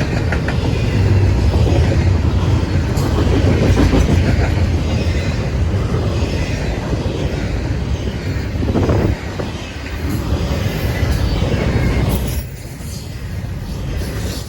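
CSX I169 intermodal freight train rolling past, its cars rumbling and clattering over the rails. The sound drops off somewhat about twelve seconds in.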